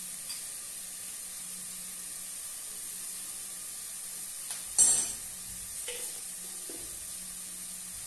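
Onion, garlic and pepper sofrito sizzling steadily in an aluminium pot, with one loud sharp clatter about five seconds in and a couple of lighter knocks soon after.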